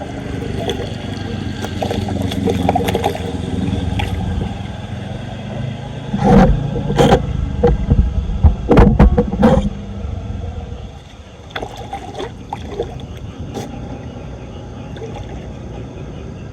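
Floodwater churning and splashing around a clogged street drain being cleared, with a run of loud, sudden hits about six to ten seconds in.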